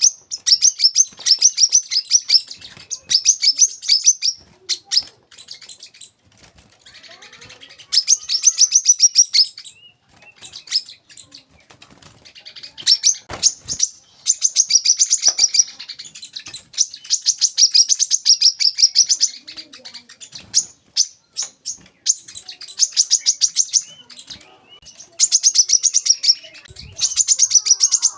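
Brown-throated sunbird (kolibri kelapa) singing: bouts of very fast, high-pitched chattering notes lasting a few seconds each, broken by short pauses with scattered single chips.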